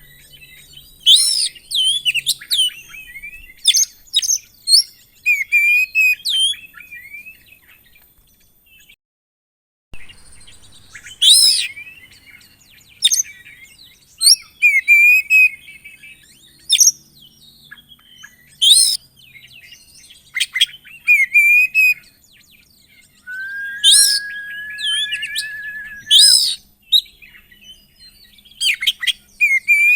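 Oriental magpie-robin (kacer) singing in loud bursts of whistled phrases and varied chirps, a full song packed with mimicked calls. About three-quarters through, a steady even trill holds for about three seconds; the song breaks off for about a second near the one-third mark.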